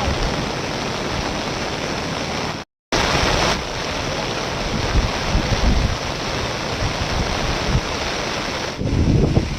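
Rushing floodwater, a steady noisy rush. It cuts out completely for a moment about three seconds in, then carries on.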